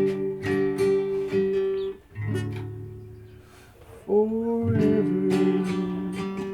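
Acoustic guitar strumming a few chords, with a second chord about two seconds in that rings and fades. About four seconds in, a man starts singing a slow song over the guitar.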